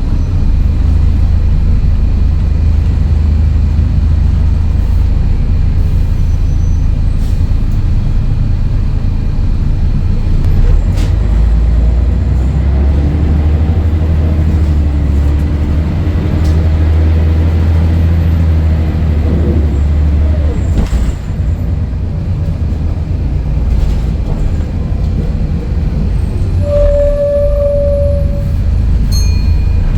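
Scania DSC11 11-litre six-cylinder diesel of a Scania L113CRL bus running steadily under way. The engine's low drone changes about twelve seconds in and again around twenty-one seconds. A short beep sounds near the end.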